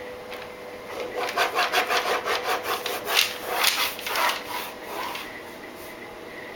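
A child scribbling: a run of quick back-and-forth scratchy strokes of a drawing tool, several a second, starting about a second in and dying away about five seconds in.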